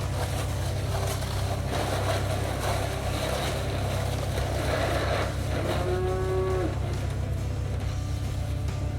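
A cow moos once, a clear call about six seconds in that lasts under a second and dips in pitch at the end, over a steady low rumble.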